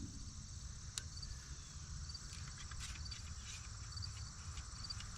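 Crickets chirping faintly in a steady repeating pattern over a low background rumble, with one sharp click about a second in.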